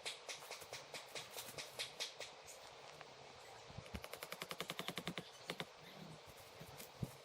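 A series of light clicks and taps, with a quick run of even clicks at about ten a second in the middle.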